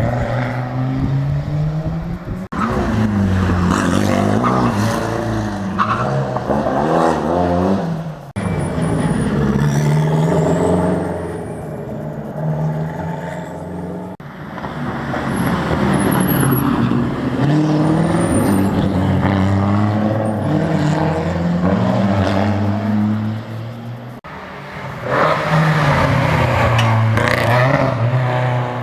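Rally car engines run hard and rev, their pitch climbing and dropping through gear changes as the cars accelerate and pass. The sound comes as about five separate clips joined by abrupt cuts.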